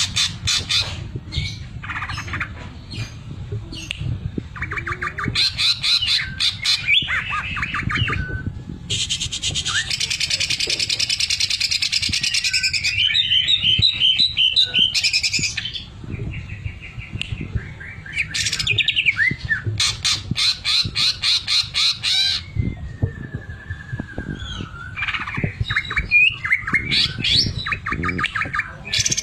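Cucak ijo (green leafbird) singing a loud, varied song of fast rattling trills and harsh hissing phrases, the mechanical rattle known among bird keepers as the 'mesin jahit' (sewing-machine) filling, with a sliding whistle near the end.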